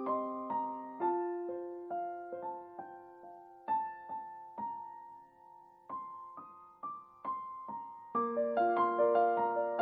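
Soft background piano music: single notes played slowly, thinning out in the middle and picking up into fuller, louder phrases near the end.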